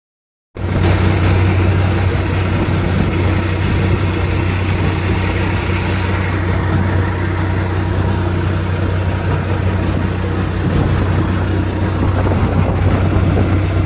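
New Holland 3630 4x4 tractor's diesel engine running steadily with a strong low hum.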